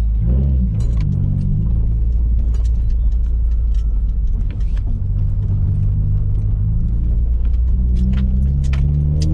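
Nissan 240's engine through an ETS Extreme catback exhaust, heard from inside the cabin as the car pulls away, with a deep steady drone; the engine note climbs in the first couple of seconds and again near the end. The engine is not yet warm. Light clicks and rattles sound over it.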